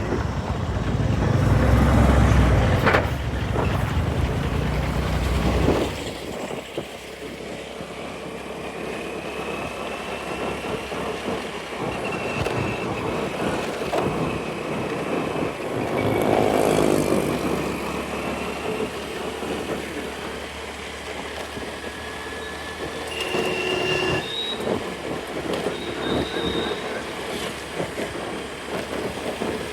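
Traffic and engine noise heard from a scooter riding through city streets, with wind rumble on the microphone for the first six seconds that then drops away. Short high-pitched tones come through now and then over the steady road noise.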